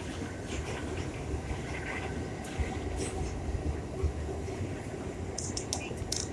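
New York City subway A train running at speed, the steady low rumble of its wheels on the rails heard from inside the car, with a few sharp clicks near the end.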